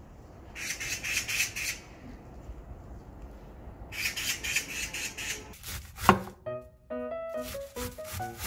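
A bird's harsh squawking calls in two bouts. Then, from about six seconds in, a knife taps through cabbage onto a wooden cutting board over background music.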